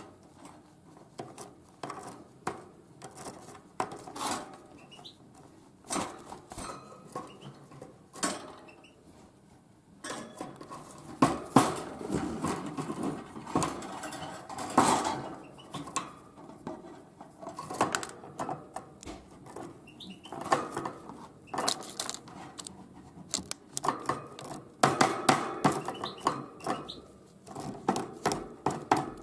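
A tit pecking at sunflower seeds: sharp, irregular taps of its beak hammering on the seeds, coming in quick runs, thinner for a couple of seconds about a third of the way in and denser in the second half.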